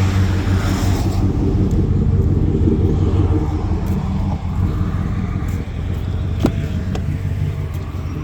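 Pickup truck engine idling, a steady low rumble, with a short click about six seconds in.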